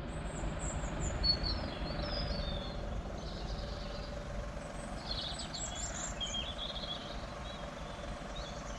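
Small birds chirping on and off, in short high calls, over a steady low background rumble.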